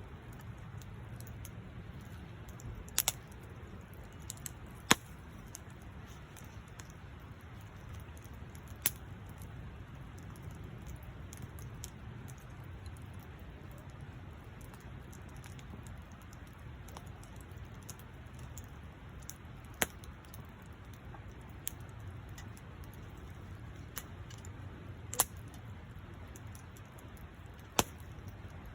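Wood campfire burning, with sharp, irregular pops and cracks every few seconds over a low steady rush.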